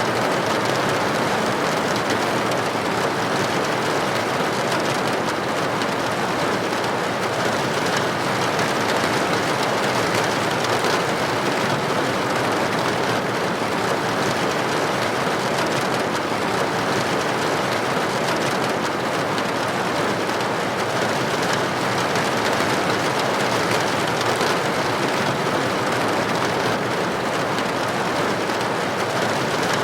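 Steady rain on a building window: an even, unbroken hiss of droplets with no single strikes standing out.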